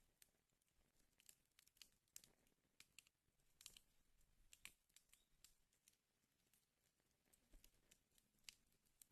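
Wood fire in a fireplace crackling faintly, with irregular sharp pops and snaps over a soft hiss, a few louder pops near the middle and near the end.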